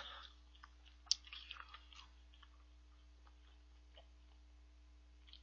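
A person chewing chicken feet close to the microphone: a sharp click about a second in, then small wet clicking chewing sounds for about a second that die away to faint ticks.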